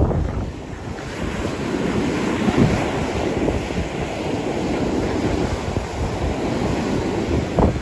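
Surf washing up the beach in rough seas, swelling about a second in, with strong wind buffeting the microphone.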